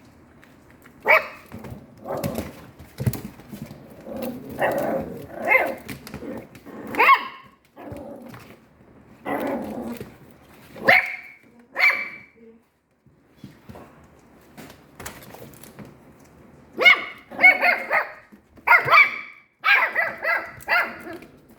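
Dog barking in separate short barks, falling silent for a few seconds midway, then a quick run of louder barks near the end.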